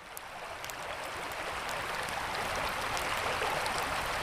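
River water flowing with a steady rush, fading in over the first second, with a campfire crackling in scattered small sharp pops.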